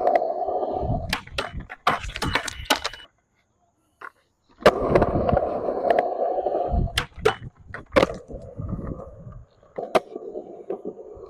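A skateboard on Spitfire urethane wheels rolling over concrete, with sharp clacks of the tail popping and the board landing several times. The sound drops out completely for about a second and a half, about three seconds in.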